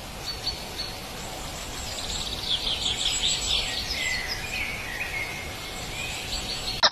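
Small birds chirping and twittering over a steady background hiss, with a few short whistled notes; the calls come thickest in the middle.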